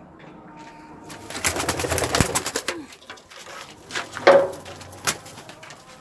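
Domestic pigeons cooing, with a loud rustling flurry from about one to three seconds in and a short louder call a little past the middle.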